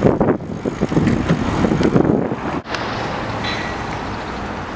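Wind buffeting the microphone and road rumble from riding a bicycle: uneven gusty rumbling at first, then after a brief dropout about halfway through, a steady rushing noise.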